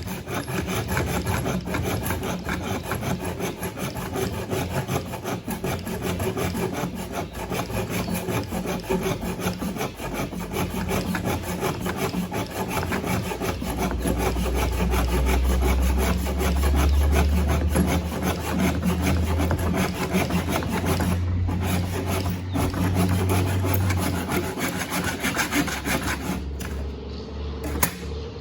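Hand saw cutting through a wooden board with quick back-and-forth strokes, the blade running against a wooden saw guide. The sawing stops about two seconds before the end.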